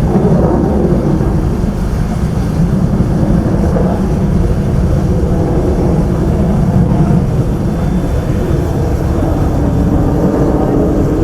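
Loud, steady jet rumble from Su-30SM fighters' twin AL-31FP turbofans during an aerobatic display pass.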